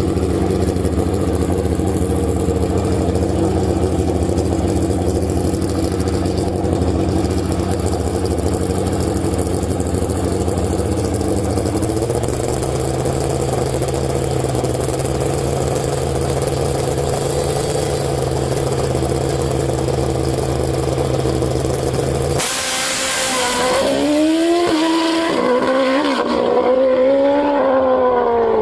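Motorcycle engine running steadily, its pitch stepping up slightly partway through. Near the end the sound changes abruptly to a hiss, with engine notes rising and falling as it is revved.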